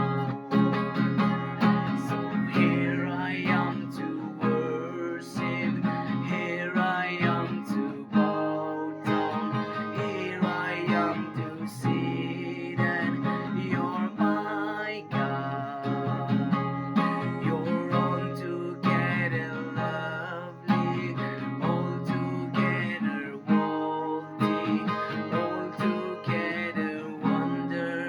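Music led by a strummed acoustic guitar, playing steadily with regular plucked and strummed notes.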